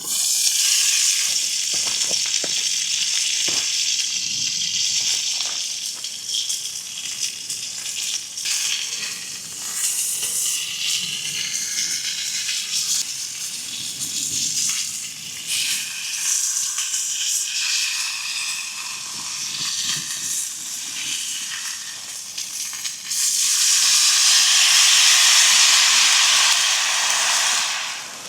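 Thick-cut steak searing over a campfire: a loud, steady sizzle with small pops of fat. It grows louder about three-quarters of the way through, then drops away just before the end.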